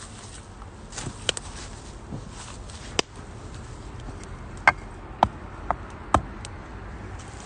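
Firewood burning in a UNIFLAME Nature Stove Large, crackling with a steady low rustle of flame. It gives off about half a dozen sharp, irregular pops.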